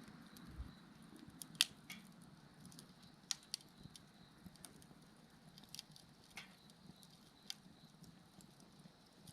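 Wood fire crackling: irregular sharp pops and snaps, the loudest about a second and a half in, over a low steady rush of burning. Faint, evenly repeating insect chirps sound in the background.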